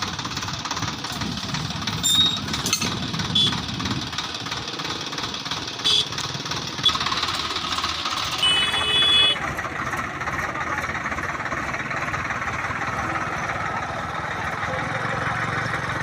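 Swaraj tractor's diesel engine running steadily under load, with a chugging knock. A few sharp knocks sound in the first half, and a brief high-pitched tone lasts under a second about eight and a half seconds in.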